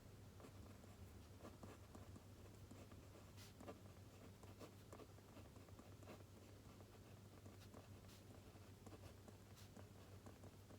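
Faint writing on paper: irregular short scratching strokes and small taps, over a steady low hum.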